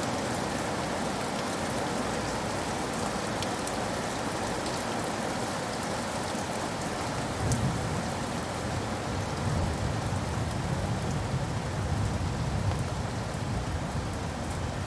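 Steady heavy rain falling on a surface. A low rumble of distant thunder rolls in about halfway through and carries on under the rain.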